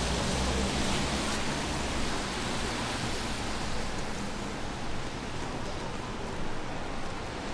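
Steady hiss of rain on a city street, with a low rumble in the first couple of seconds that fades.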